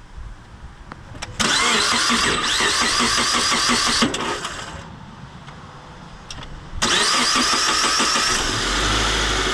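Subaru Forester's flat-four engine being started. The starter cranks for a few seconds and stops, then after a pause of about three seconds cranks again, and the engine catches and runs near the end. The hesitation makes the buyer suspect a starter whose solenoid is only just coping.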